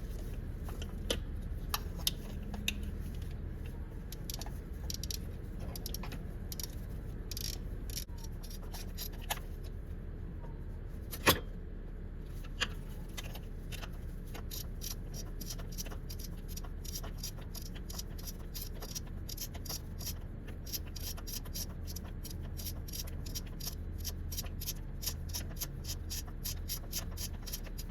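Socket ratchet clicking in rapid runs as 12 mm bolts are backed out, with a single sharp metal clink about eleven seconds in, over a low steady hum.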